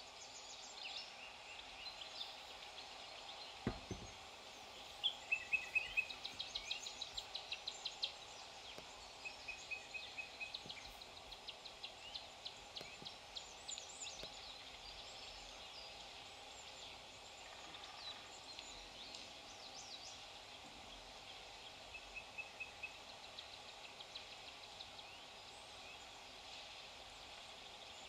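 Outdoor garden ambience with songbirds calling: scattered chirps and rapid trills, busiest in the first half, over a faint steady hiss. There is a single low thump about four seconds in.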